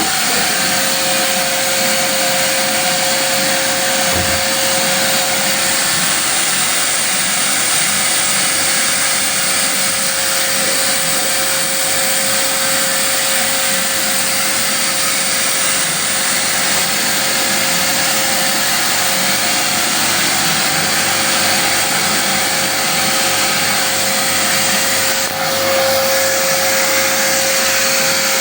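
A motor-driven machine running steadily: a constant mid-pitched whine over a loud, even whooshing hiss, unchanged for the whole stretch.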